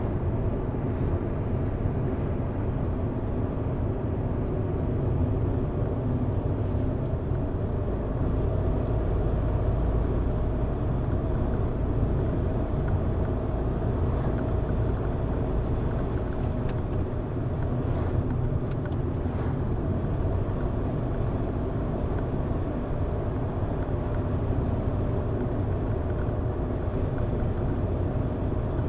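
Car driving at steady speed: a continuous low rumble of engine and tyres on the road, with faint steady engine tones and a few faint clicks between about 17 and 19 seconds in.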